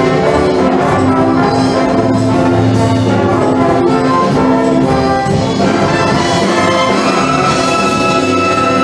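A wind band playing, with brass to the fore and long sustained chords.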